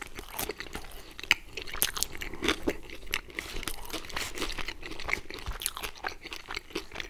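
Close-miked chewing of pizza, with many irregular crunches of crust; around the middle, a slice is picked up off the pie.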